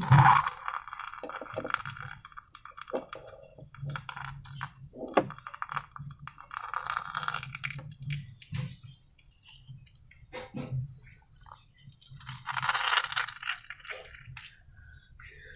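Slime being handled by hand: irregular clicks, crackles and squelchy noises, with louder crackling bursts at the start, midway and about twelve seconds in.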